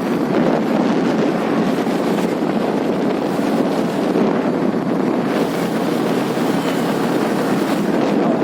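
Wind buffeting the microphone of a moving motorcycle, a steady rush over the ride's engine and road noise.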